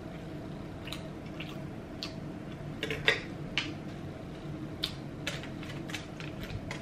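Close-miked chewing of soft food: irregular wet mouth clicks and smacks, more frequent in the second half.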